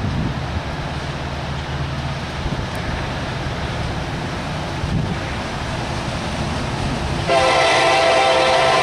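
EMD SD70ACu diesel locomotive running with a low, steady engine rumble; about seven seconds in its air horn starts sounding a loud, steady chord of several notes.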